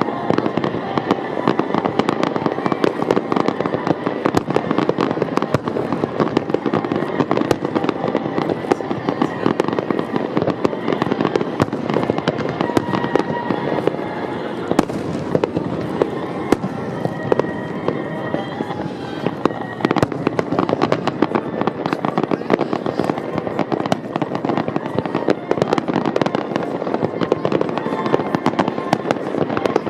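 Fireworks display in a dense, continuous barrage: bursts and crackle come thick and fast with no pause.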